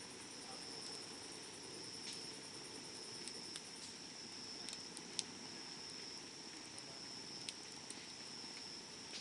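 Wood campfire crackling, with scattered sharp pops, the loudest about five seconds in, over a soft steady hiss. Insects trill steadily at a high pitch behind it.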